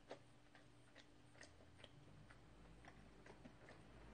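Near silence with faint soft mouth clicks, about two a second: closed-mouth chewing of sticky glutinous rice cake (chaltteok).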